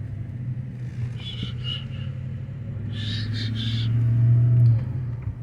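Truck engine and road rumble while driving slowly, a steady low hum that swells near the end and then eases off. Two brief high-pitched sounds come about a second and three seconds in.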